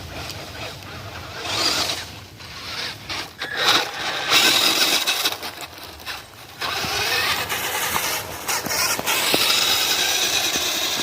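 Radio-controlled 1:16 WPL truck with a Traxxas LaTrax electric motor and metal-geared D12 gearbox driving in surges: motor and gear whine with tyre noise over the ground, loudest from about four seconds in.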